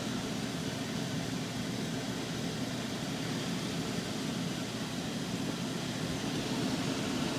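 Fan of a Carrier gas furnace running steadily as it goes through its normal start-up sequence, before the burners light.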